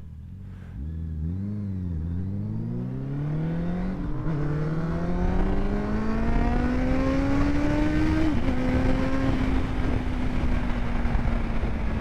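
Engine accelerating hard, its pitch climbing steadily with a short dip about four seconds in and another near eight seconds as it shifts up, then holding steady.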